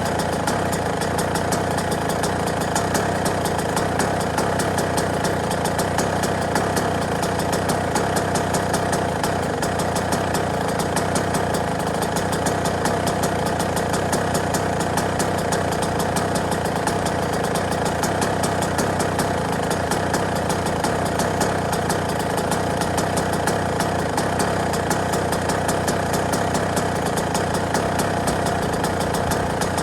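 Yamaha YZ125 motocross bike's 125cc single-cylinder two-stroke engine idling steadily, with a fast, even beat of firing pulses.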